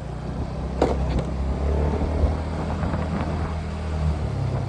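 Motorcycle engine running steadily under way, with road noise, and a sharp click about a second in.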